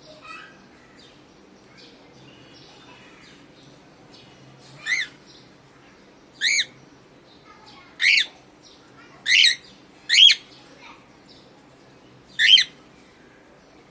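Cockatiel calling: quiet chirping at first, then from about five seconds in six loud, short, warbling squawks spaced a second or two apart.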